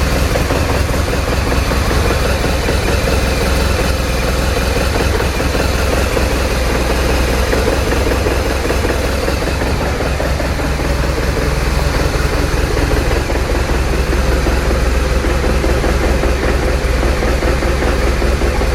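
BMW R1200RT motorcycle's boxer-twin engine idling steadily.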